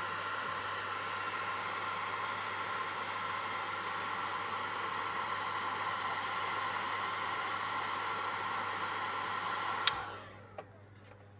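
Electric heat gun blowing steadily, a whooshing airflow with a fan whine, then switched off with a click about ten seconds in and quickly dying away.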